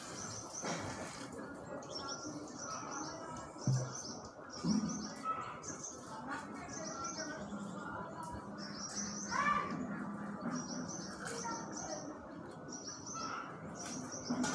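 A small bird chirping over and over, short high chirps about once a second. In the first second, water poured from a mug into the cooking pot trails off.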